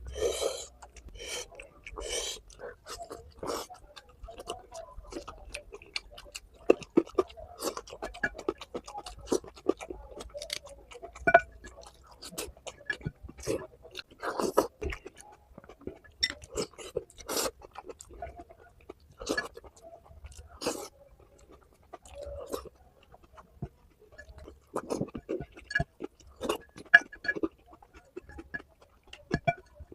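Close-miked chewing and mouth sounds of a person eating rice and curry: irregular smacks and clicks, a few louder than the rest.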